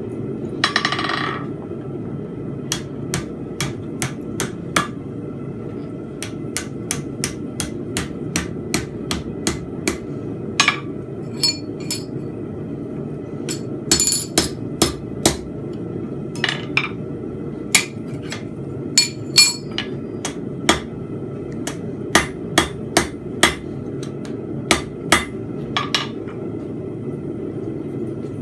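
Hand hammer striking hot steel on an anvil while forging, blows coming in irregular runs of one or two a second, some ringing sharply. A steady low hum runs underneath.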